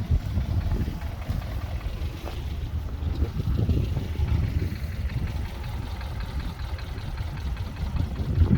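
Mitsubishi Pajero iO's 2.0-litre petrol engine running with an uneven low rumble.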